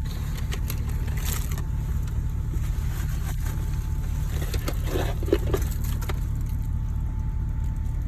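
Steady low rumble of a car heard from inside the cabin, with a few brief clicks and knocks about five seconds in.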